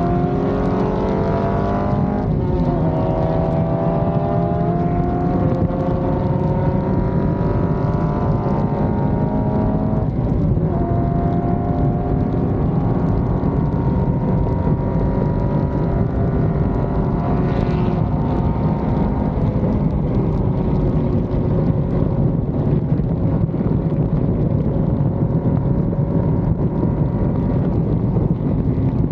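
A sports car's V8 engine pulling hard through the gears. Its note climbs and then drops at upshifts about 2.5 and 10 seconds in, then settles to a steadier drone at speed.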